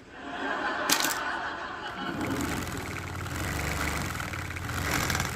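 An engine running steadily: a low even hum with a high buzz over it sets in about two seconds in, after a rising rush and a sharp click about a second in.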